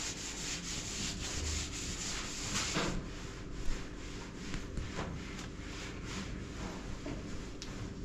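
Irregular rubbing and scraping noises, with a brief sharp knock about three and a half seconds in.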